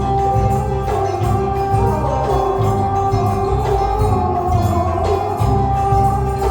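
Traditional Vietnamese water puppet theatre music: a sustained, sliding melody over a steady percussion beat.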